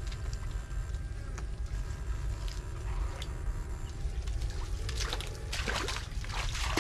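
Muddy floodwater splashing and sloshing as an electrofishing pole and net are swept through a shallow ditch and a person wades in, the splashing growing busier about five seconds in. A steady low rumble runs underneath.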